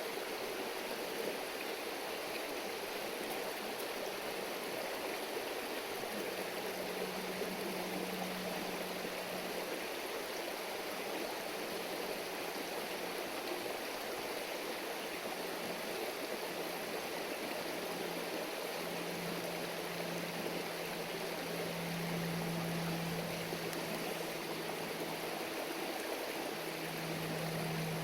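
River stream babbling steadily. A low steady hum comes and goes from about six seconds in and is strongest near the end.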